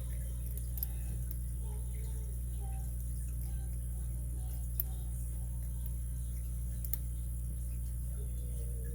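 Faint, scattered clicks of a lock pick and tension wrench working the pins in a Master Lock 930/950 padlock core, over a steady low hum.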